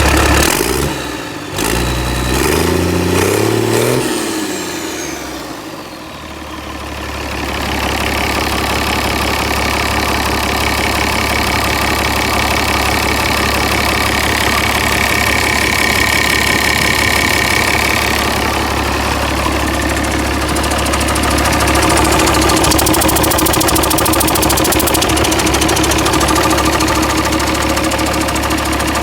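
Mercedes-Benz OM366LA inline-six turbo diesel running. In the first few seconds it is revved up and down, and a high whine sweeps downward as the revs fall back. It then settles into a steady idle that grows slightly louder in the last third.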